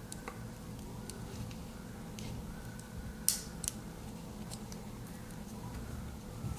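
Small metallic clicks from a Swiss Army knife and its tools being handled, with two sharper clicks a little over three seconds in.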